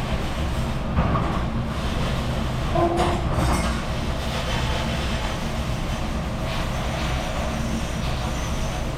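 Commercial dishwashing machine running steadily with a continuous rumble and wash noise, with a few brief clinks of dishware about a second and three seconds in.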